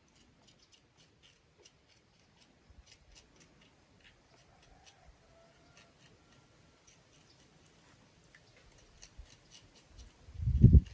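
Faint, irregular sharp clicks and snips, then a loud low rumble starting about ten seconds in.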